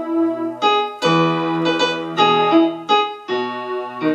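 Electronic keyboard on a piano-pad sound playing a slow melody in E major over held left-hand bass notes, new notes struck about every half second.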